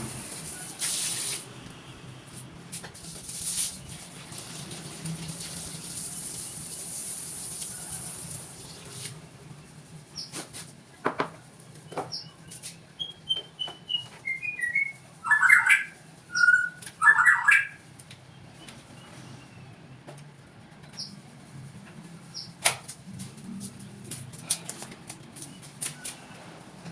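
Small birds calling and chirping, with scattered sharp clicks and taps. A high steady hiss runs for the first nine seconds or so. About thirteen seconds in comes a quick run of falling chirps, then several louder calls.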